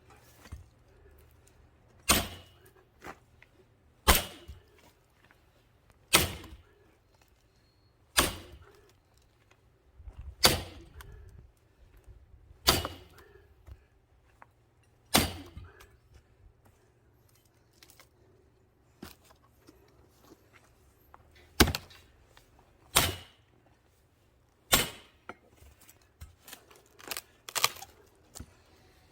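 Logs being split by hand for firewood: a sharp, loud strike of the splitting blade into the wood about every two seconds, with quicker, lighter blows near the end.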